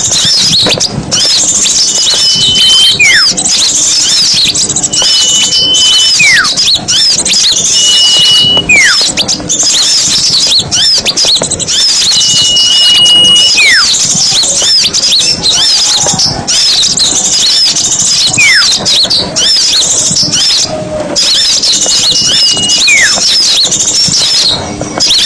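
Bird-lure recording of many small songbirds chattering busily at once. Every few seconds a clear whistled call stands out: a held high note followed by a quick falling note.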